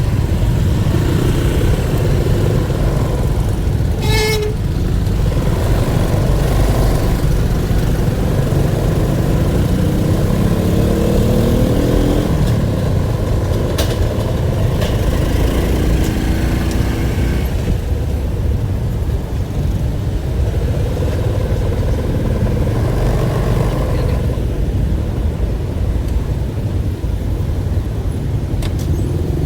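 Steady low rumble of motor-vehicle engines and road traffic, with a short horn toot about four seconds in and an engine climbing in pitch as it revs up around ten to twelve seconds in.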